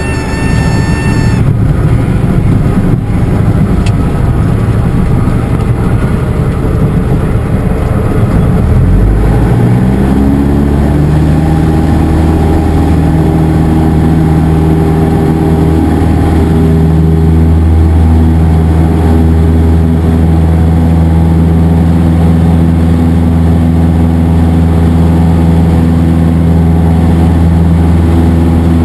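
Cessna 172SP's Lycoming four-cylinder engine and propeller heard from the cockpit during a touch-and-go: a brief stall warning horn at the start, then a rough rumble with the engine near idle, and about nine seconds in the engine pitch rises as full power comes in for takeoff, then runs steady.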